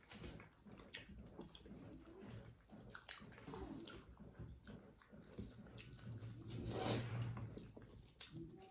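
Faint eating sounds: wet chewing and mouth noises with scattered small clicks of dishes and cutlery, and one louder sound about seven seconds in.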